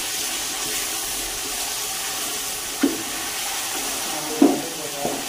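Chicken pieces sizzling as they fry in oil in an aluminium pot, stirred with a wooden spoon: a steady hiss, with two short knocks a little under three and about four and a half seconds in.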